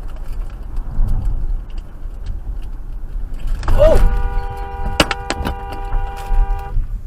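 Car and road rumble, then about four seconds in a short squeal followed by a car horn blaring steadily for nearly three seconds. A sharp knock comes partway through the horn.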